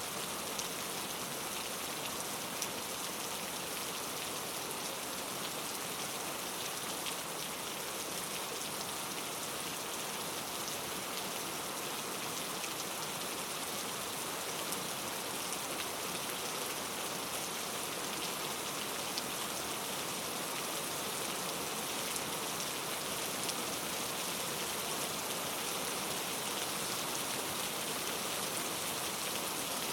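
Steady rain falling, a dense even hiss of drops with scattered sharper drop ticks.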